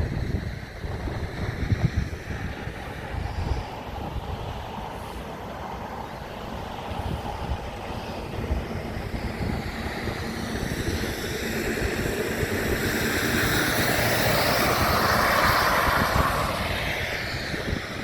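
Wind rumbling on the microphone, with a vehicle passing that grows louder through the middle and peaks near the end before fading.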